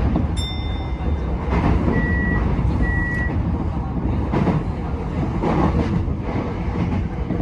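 Tokyo Metro 10000 series electric train running at speed, a steady rumble with occasional rail knocks. About half a second in there is a short electronic tone, then two short high beeps about a second apart.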